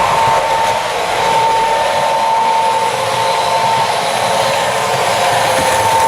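H0-scale model diesel locomotive running along the track: a steady electric whine over rolling wheel noise.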